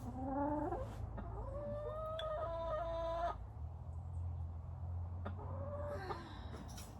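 Chickens calling and clucking: a few drawn-out, level-pitched hen calls in the first three seconds and again near the end, over a low steady rumble.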